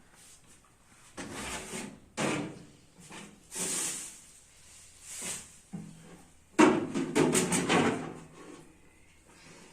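Household items being handled in a kitchen: a series of knocks and short sliding clatters, like drawers and containers being moved. The loudest is a run of rattling clicks that starts about six and a half seconds in and lasts a second and a half.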